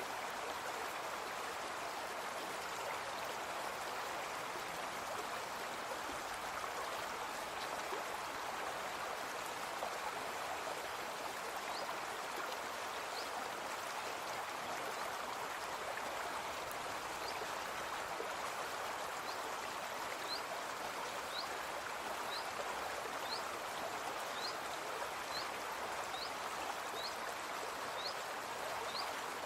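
A brook flowing with a steady rushing babble. From about twelve seconds in, a bird gives a short, rising call over it, roughly once a second.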